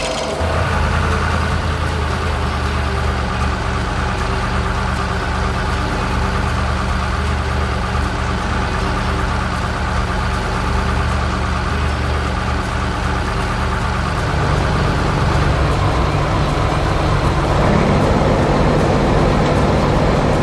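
Heavy truck engine running steadily, its pitch and loudness stepping up about two-thirds of the way through.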